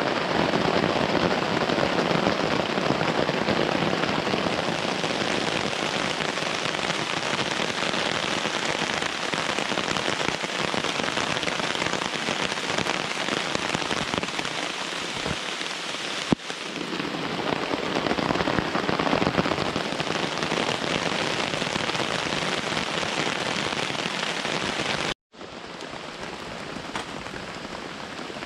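Heavy rain falling steadily. About 25 seconds in it breaks off for an instant and comes back a little quieter.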